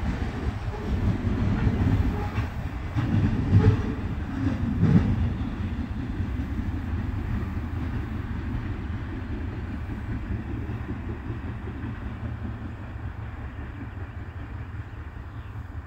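Freight cars of a loaded trash train rolling away on the rails: a wheel-on-rail rumble with a couple of louder clanks a few seconds in, fading steadily as the rear of the train recedes.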